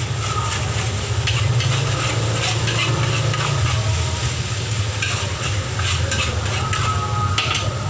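Metal spatula scraping and clinking against a wok as fried rice is stir-fried, with sizzling, over a steady low hum.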